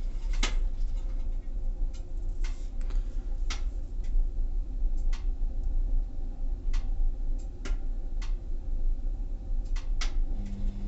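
Waterland 18 kW pellet stove running: a steady low hum with about ten sharp, irregularly spaced clicks and ticks.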